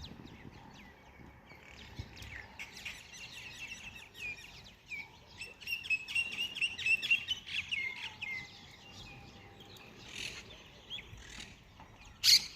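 Birds chirping in a dense run of short, high calls, thickest in the middle, with one short, loud sound near the end.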